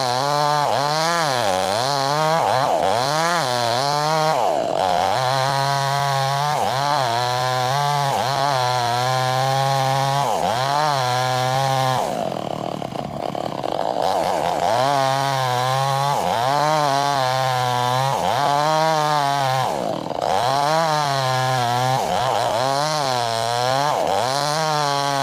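Chainsaw cutting wood lengthwise to split it. The engine pitch rises and falls about once a second as the chain bites and frees, with stretches where it holds lower and steady under load.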